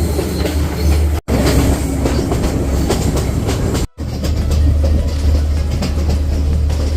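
Passenger train running along the line, a steady low rumble of the carriage and wheels on the rails. It is broken twice by a brief cut to silence, about a second in and near four seconds.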